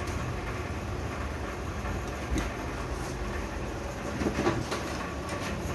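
Steady low background rumble with a few faint light clicks, as the turbocharger's parts are handled during the rebuild.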